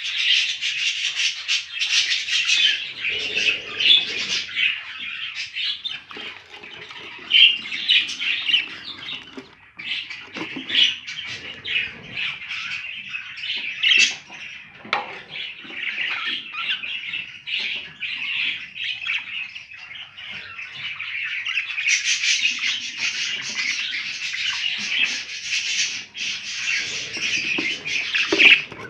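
Budgerigars chattering and squawking without pause, a dense stream of short raspy calls that grows louder and busier towards the end.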